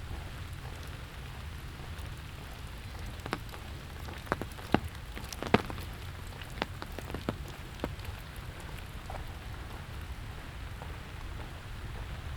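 Steady autumn rain falling, with a run of sharp, close drips tapping near the microphone in the middle few seconds, the loudest about halfway through.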